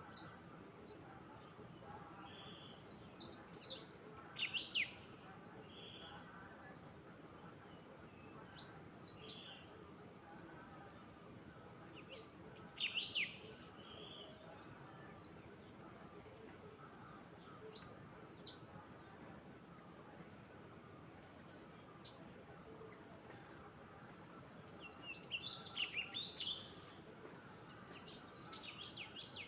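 A songbird singing short, high, twittering phrases, about one every three seconds, over a faint steady background hiss.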